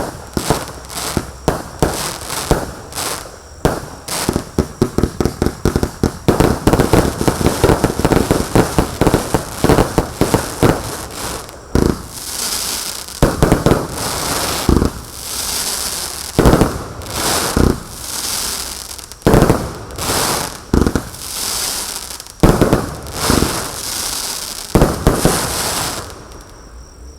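Lesli Mighty Kreator firework firing: a rapid string of shots for about the first twelve seconds, then slower single shots about every second and a half, each followed by crackling. It dies away just before the end.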